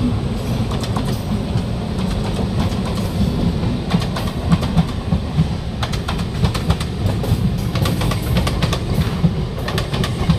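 Moving express train heard from an open coach doorway: a steady loud rumble of wheels on the track, with a run of sharp clacks over the rail joints through the middle.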